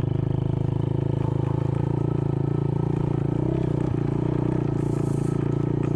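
An engine running steadily at a constant speed, with a faint click about four seconds in.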